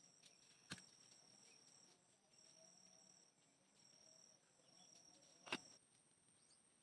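Faint night insects trilling in steady, high-pitched stretches that break off and resume. Two sharp clicks land about a second in and near the end.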